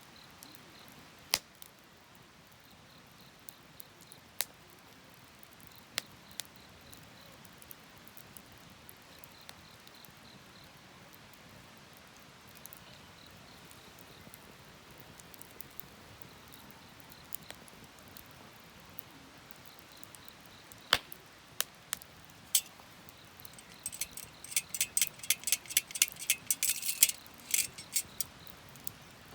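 Wood fire crackling: scattered sharp pops from the burning wood, then a quick run of crackles near the end.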